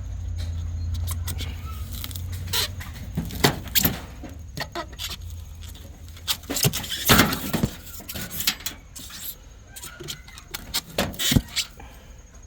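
A nail being worked out of aluminum siding: scattered sharp metal clicks, knocks and scrapes of the tool against the thin aluminum. A low steady rumble underlies the first few seconds.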